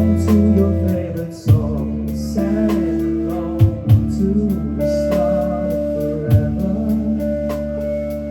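Live rock band with electric guitars, bass guitar and drums playing an upbeat pop-punk cover song. Sustained guitar and bass notes run under repeated kick drum hits.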